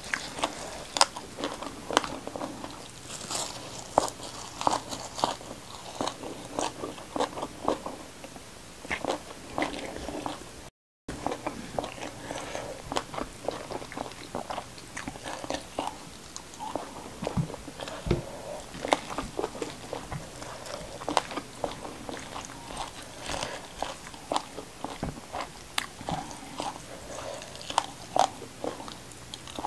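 Close-miked chewing and crunching of fried fish and raw greens, a dense run of irregular crisp crunches and wet mouth clicks, with fingers picking at the fish. The sound cuts out briefly about eleven seconds in.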